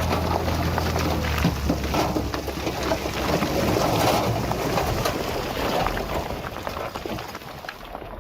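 Engine of a heavy earthmoving machine running, with a steady low hum for about the first second and a half. It then gives way to rough rumbling and crackling noise with scattered clicks, growing quieter near the end.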